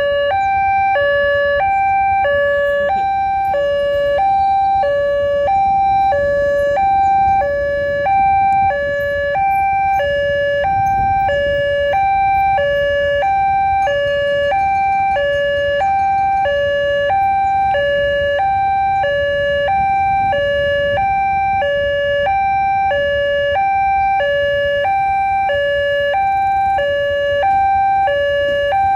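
Railway level-crossing warning alarm sounding its electronic two-tone signal, a high and a low tone alternating evenly and without pause, which warns that a train is coming through the crossing. A low rumble runs beneath it.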